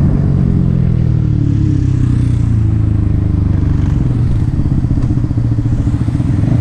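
Yamaha XSR 155's single-cylinder four-stroke engine through an aftermarket M4 exhaust. Its note falls as it slows over the first two or three seconds, then it runs steadily at low revs with a rapid pulsing exhaust beat.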